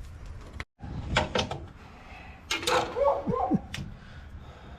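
Sharp clicks and knocks of parts and tools being handled while changing filters on a Cat 318B excavator, in two clusters, with a short pitched squeak or voice-like sound between them.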